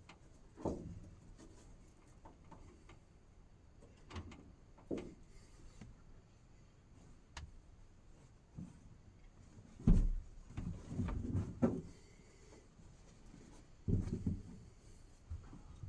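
Scattered knocks, bumps and clatter of things being handled, with the loudest thumps and rattling about ten to twelve seconds in and again about fourteen seconds in.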